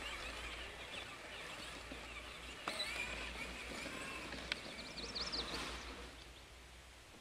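Quiet outdoor ambience: a steady low background noise with faint high bird chirps, thickest about halfway through, and a couple of small clicks.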